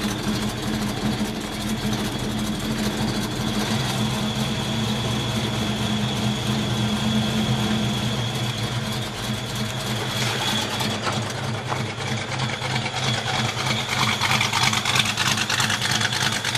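1967 Ford Mustang's small-block V8 with long-tube headers and dual exhaust idling steadily, with the loping idle of its mild aftermarket cam.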